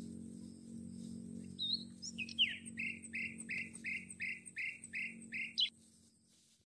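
A bird calling: one high chirp, then a quick run of about nine short repeated notes, about two and a half a second, over a low steady hum that fades out.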